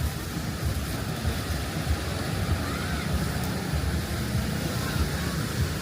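Wind buffeting the microphone in low, uneven rumbles over a steady rush of surf.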